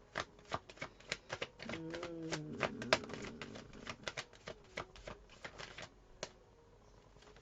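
Tarot cards being shuffled, a quick irregular run of crisp card clicks and snaps that stops about six seconds in. A short low hum of a woman's voice breaks in around two seconds in.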